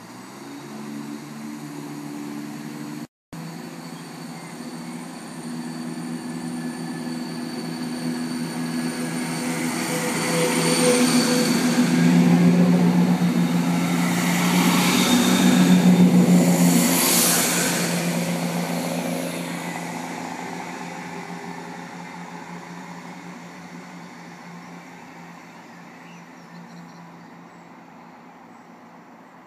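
Diesel train passing, its engine drone and wheel noise building to a peak about halfway and then fading slowly away. The sound cuts out for an instant about three seconds in.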